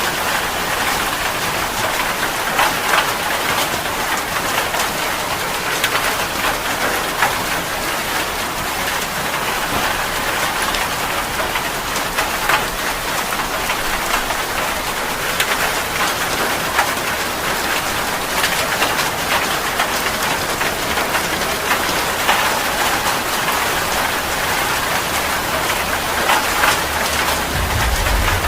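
Steady heavy rain falling, an even hiss full of small drop ticks. A low rumble comes in near the end.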